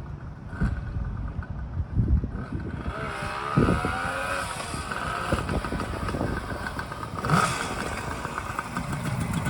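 Kawasaki 250SS S1A motorcycle's air-cooled two-stroke three-cylinder engine running, its note rising and falling as it revs, with a few sharp knocks.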